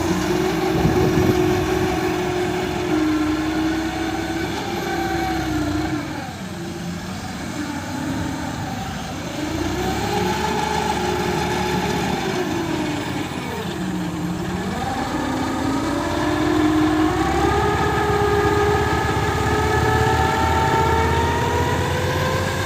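Heavy diesel engine running with its speed rising and falling as it works, dipping twice and climbing steadily near the end.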